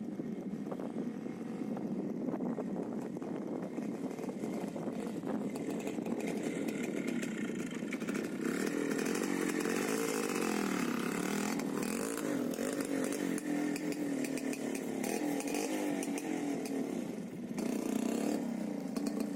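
Minsk motorcycle's two-stroke single-cylinder engine running, its engine speed and pitch rising and falling repeatedly, with a brief swell near the end.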